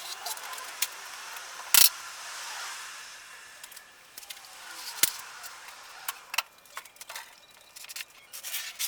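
Pallet timber and hardware being handled: scattered clicks and light rattles, with two sharp knocks, the first just under two seconds in and the second about five seconds in.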